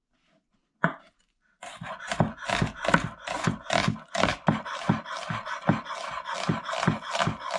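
Rhythmic scraping or rubbing strokes, about three a second, from food being worked by hand in the kitchen. They start about a second and a half in, after near silence.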